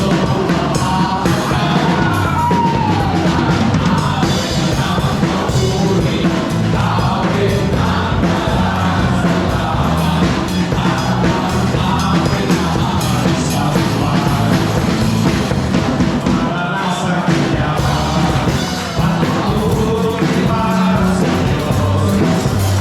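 Live worship band playing loudly, with voices singing along.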